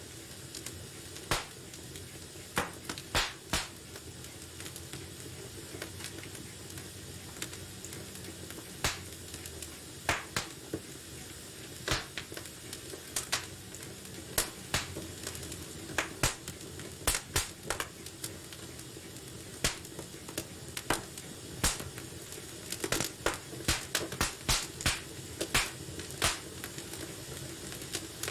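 Wood fire burning in a fireplace: a steady low hiss with irregular sharp crackles and pops, which come thicker near the end.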